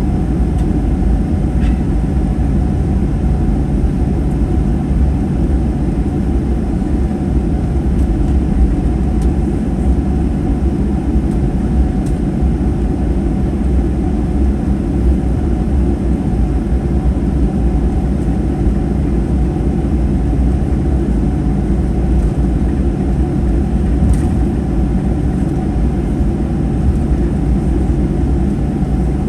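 Steady low rumble of a Boeing 737-800's CFM56-7B engines and airflow, heard inside the passenger cabin in flight. A couple of faint clicks rise briefly above it.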